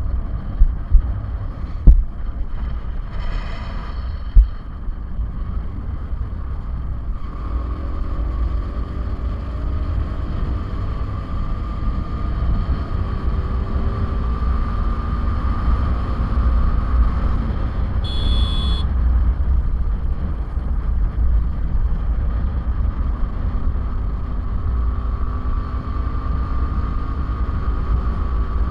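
Riding a motorcycle on the road: a steady wind rumble on the microphone over the running engine. There are a few sharp knocks in the first few seconds and a brief high-pitched beep about eighteen seconds in.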